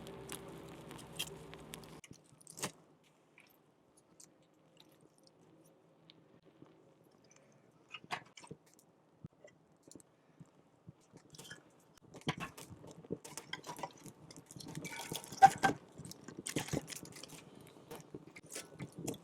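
Music that cuts off about two seconds in, then scattered small clicks and taps of handling, growing into a busy run of crunching and clicking over the last seven seconds.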